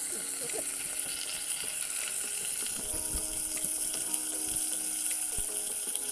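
Pork chops frying in hot oil in a pan, a steady sizzle with a few light knocks.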